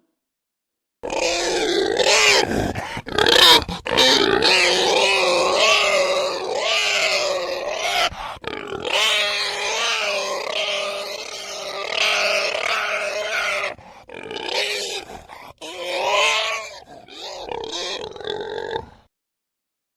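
Pig grunting and calling in a near-continuous run of wavering, pitched calls that starts about a second in and stops about a second before the end.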